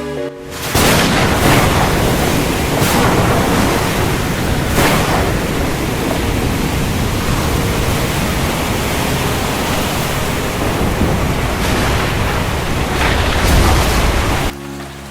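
A loud, steady rushing noise, strong in the low end, with sharp surges about a second in, near three and five seconds, and twice near the end; it cuts off suddenly shortly before the end.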